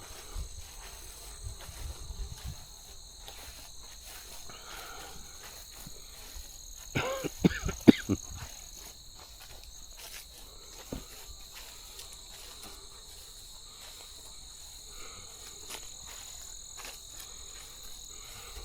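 Field crickets and other insects trilling steadily in a late-summer meadow, a continuous high chorus. About seven seconds in, a brief louder cluster of short pitched sounds rises over it, with a few low bumps near the start.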